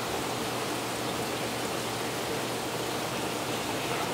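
Steady rushing water noise from the reef aquarium's circulation, an even hiss that does not change.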